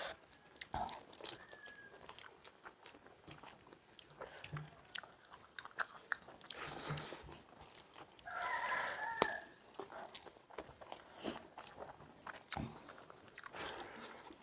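Close-up eating sounds: rice and chicken fry eaten by hand, chewing and lip smacks, with fingers mixing rice on steel plates, many small clicks. A brief, louder vocal sound comes a little past the middle.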